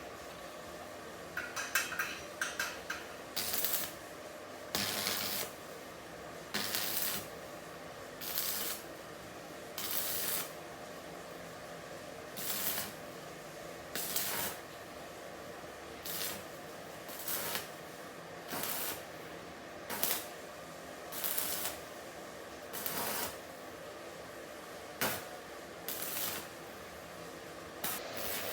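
Aerosol spray paint being applied in repeated short hissing bursts, roughly one every one to two seconds. The bursts are preceded by a quick run of small rattling clicks.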